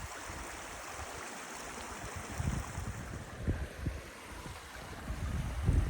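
Steady rush of a mountain creek, with low gusts of wind buffeting the microphone from about two seconds in.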